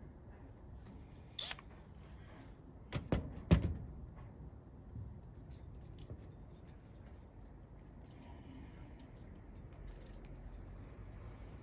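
A few sharp knocks from hand work on a garage door weather seal, the loudest about three and a half seconds in, followed by faint light metallic jingling.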